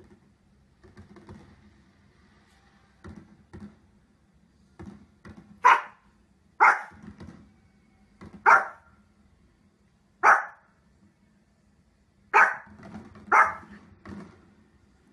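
Small dog, a Pomeranian, barking: six sharp single barks about one to two seconds apart, starting about halfway through, after a few faint knocks.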